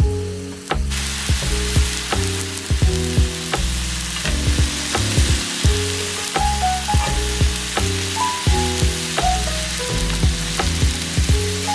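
Food sizzling in a pan over a campfire: a steady hiss that starts suddenly about a second in. Background music with a stepping melody runs underneath, with frequent sharp clicks.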